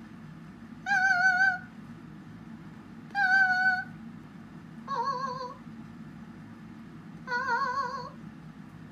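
Cockatiel singing four long held notes with a wavering vibrato, each under a second and about two seconds apart; the last two notes are lower than the first two.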